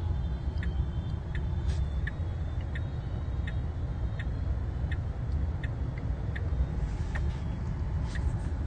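Tesla turn-signal indicator ticking steadily, a bit under a click and a half per second, over the low rumble of the car's cabin on the move.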